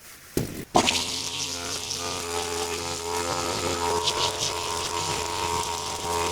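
A small engine starts up suddenly under a second in, then runs at a steady speed with an even buzzing note, as a brush-clearing power tool does.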